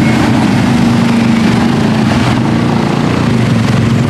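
Off-road truck engine running loud and steady under heavy load, with a dense wash of noise over it.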